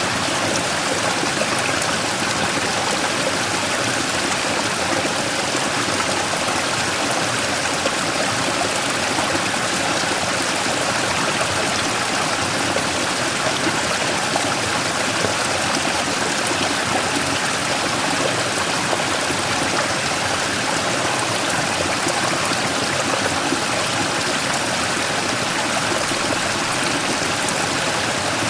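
Mountain stream rushing and splashing over a large rock in a small waterfall, a steady, unbroken water sound.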